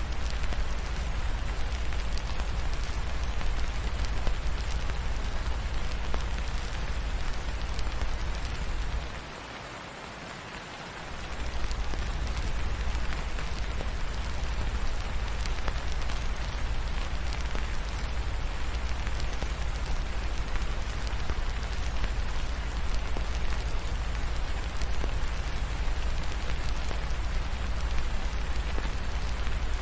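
Steady rain falling, mixed with a crackling fireplace, over a low rumble. The low rumble drops away for about two seconds, about nine seconds in, then returns.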